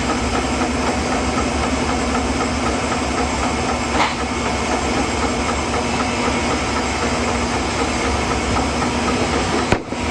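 Sawmill running steadily while cutting through a walnut log, with an engine-like hum and hiss. A single sharp tick about four seconds in, and the sound breaks off briefly just before the end.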